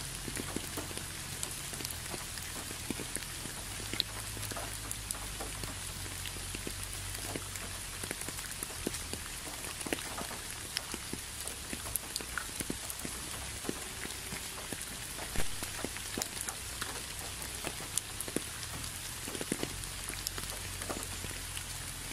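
Steady rain: an even hiss with many separate drops ticking at irregular moments.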